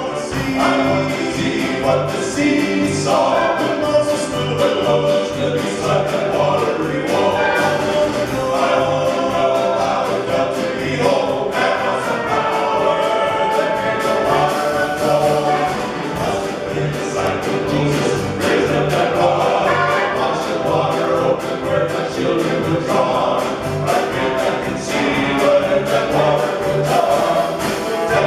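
Gospel vocal group singing a fast song together, with accompaniment on a steady pulsing beat.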